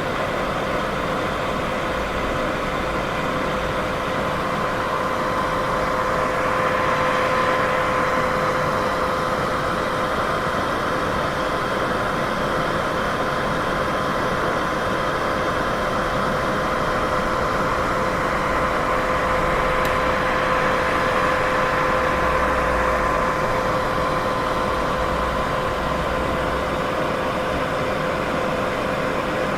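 Continuous white noise for sleep: an even, steady hiss with a low steady hum running through it, swelling slightly a few times.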